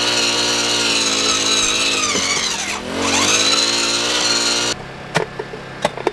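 Gas-powered earth auger running under load. Its engine pitch sags and recovers about two seconds in as the 8-inch bit grinds against rocks in the hole. The engine cuts off about four and a half seconds in, followed by a few sharp knocks.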